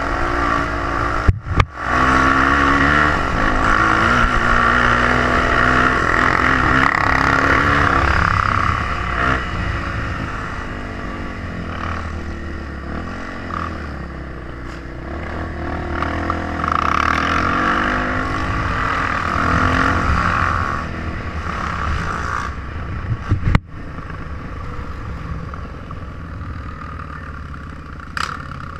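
Trail motorcycle engine running under way, its pitch rising and falling as the rider works the throttle, with two sudden brief breaks in the sound.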